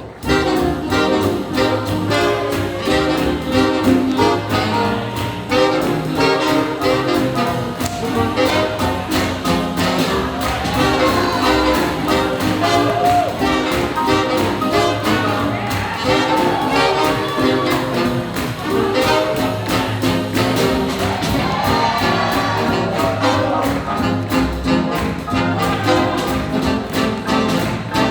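Live big-band swing jazz with a brass section of trumpets and trombones over a steady, driving beat.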